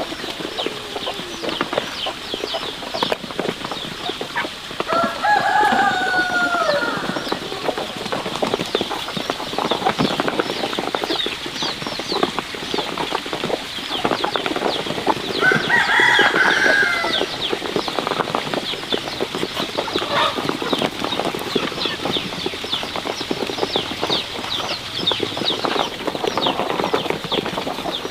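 Chickens calling: a steady flurry of short, high peeps throughout, with two longer, drawn-out calls about five seconds in and again about fifteen seconds in.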